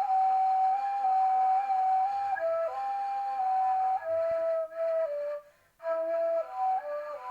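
A solo flute playing a slow melody of held notes, one line at a time, stepping between pitches, with a short break for breath about five and a half seconds in.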